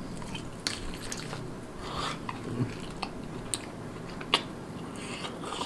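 Close-miked biting and chewing of a piece of marinated rabbit meat, with a few short sharp clicks scattered through it.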